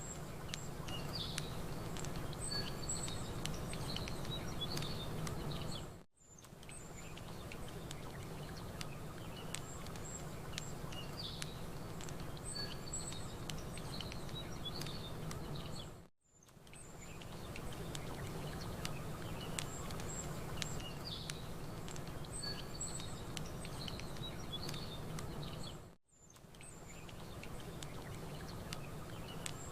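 Nature ambience track: a campfire crackling with small pops, small birds chirping, and a low steady wash that fits lapping lake water. The track loops about every ten seconds, briefly dipping out and fading back in three times.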